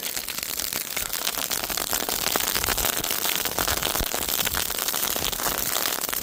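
Dry grass fire burning, a dense, fast crackle of many small pops.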